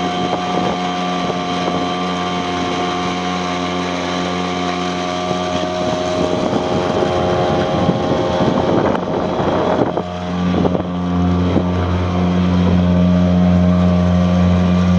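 Tohatsu M3.5B2 two-stroke outboard running steadily at full throttle, pushing a heavy cabin boat, with wind rushing on the microphone. The engine sounds healthy again after a stuck, corroded carburettor float needle was replaced. A rush of noise comes about six to ten seconds in, and the engine note grows louder from about ten seconds in.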